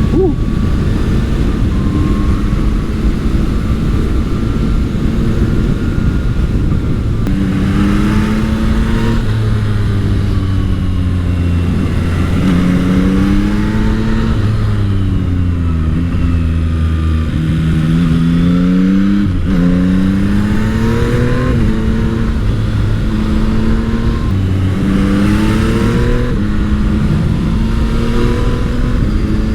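Yamaha MT-09 SP's CP3 three-cylinder engine on the move, its pitch repeatedly rising under throttle and falling on the overrun and at gear changes, with a sharp drop about 19 seconds in. The engine is being run in.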